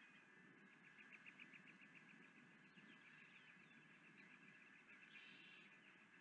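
Faint birdsong: a rapid trill of short, even notes, about eight a second, with a few brief chirps mixed in, over quiet outdoor ambience.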